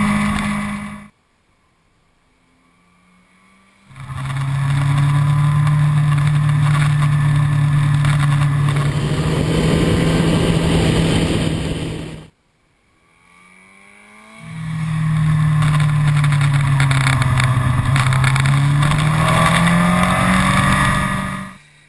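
Yamaha R1 inline-four motorcycle engine droning at a steady cruising pitch under heavy wind rush, as heard riding on the bike. The sound cuts off sharply twice into a much quieter lull of a couple of seconds. Near the end the engine pitch climbs as the bike accelerates.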